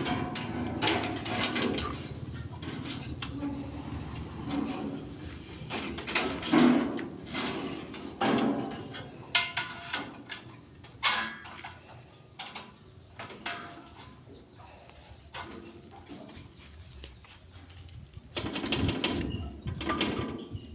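Irregular clicks, knocks and clinks of metal parts being handled as a chainsaw bar and chain are fitted and tensioned; the engine is not running.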